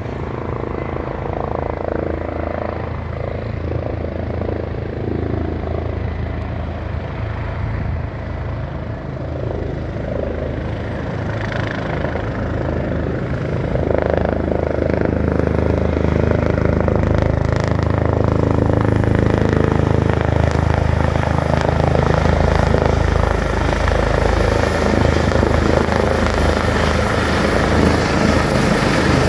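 Helicopter coming in to land, its rotor and engine running steadily and growing louder about halfway through.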